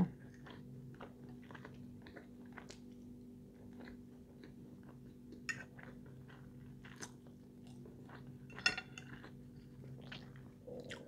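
Close-up chewing and mouth sounds of someone eating French fries, rice and salmon: quiet and irregular, with a few sharper smacks or clicks about five, seven and nine seconds in. A faint steady hum sits underneath.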